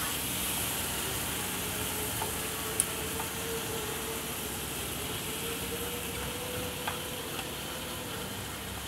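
Marinated chicken pieces frying in melted butter in a non-stick pan: a steady sizzle, with two brief sharp clicks.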